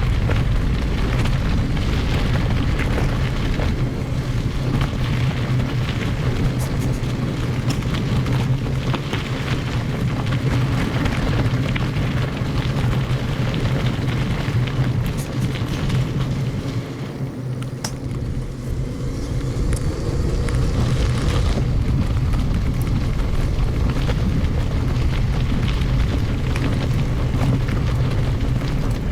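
Wind rumbling on the microphone and tyres rolling over a gravel forest road while riding a mountain bike. It is a continuous, heavy low noise sprinkled with small ticks, easing off for a few seconds around the middle.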